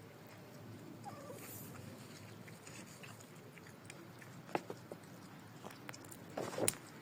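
A cat chewing food, with a few sharp clicks, the loudest about four and a half seconds in and a cluster near the end.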